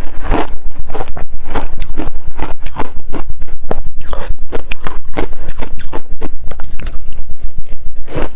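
Ice crunched between the teeth close to the microphone: a fast, loud run of crunching bites and chews, about four to five a second.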